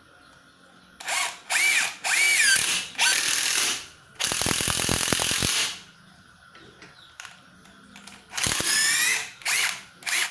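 Stanley SBI201D2K 18 V cordless impact driver run in a series of short trigger pulls, its motor whine rising and falling in pitch with each pull. In the longest burst, about four seconds in, it gives a fast, even rattle as the impact mechanism hammers.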